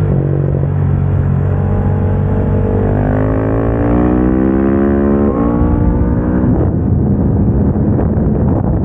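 KTM 690 SMC-R supermoto's single-cylinder engine under acceleration on track, its pitch rising steadily for about two seconds and then dropping sharply at a gear change about five seconds in. Near the end the engine note gives way to a noisier rush of wind.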